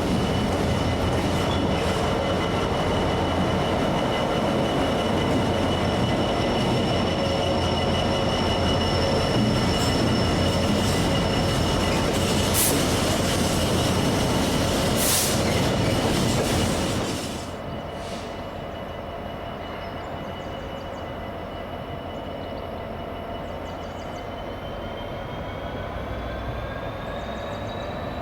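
A train passing on the tracks, with loud rolling noise and steady high-pitched squeals or whines. The rolling noise drops away suddenly about two-thirds of the way through, leaving a fainter whine that starts rising in pitch near the end.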